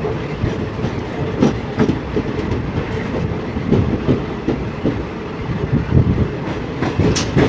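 Jan Shatabdi Express passenger train gathering speed: a steady rumble with the wheels clattering over rail joints.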